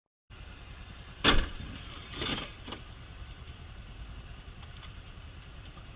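Car collision heard over steady road and engine rumble: a loud sharp bang about a second in, then a weaker crunch about a second later and a small knock.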